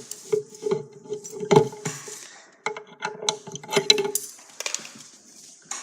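Irregular knocks and clatter over a steady low hum; the hum stops a little after four seconds in.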